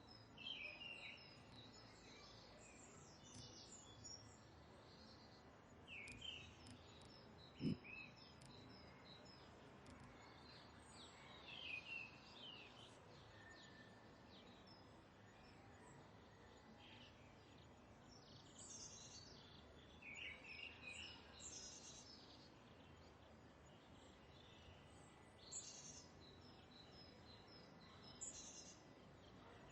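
Faint bird chirps and short trills come and go over a steady low background hiss. A single brief thump sounds about eight seconds in.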